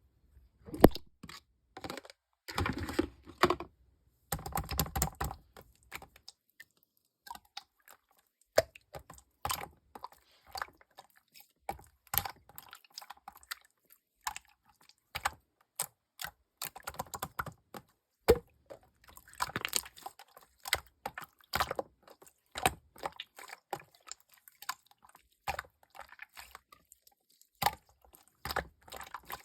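Jelly-textured slime being squished and stretched by hand, giving irregular sticky clicks and pops with a few short crackly stretches.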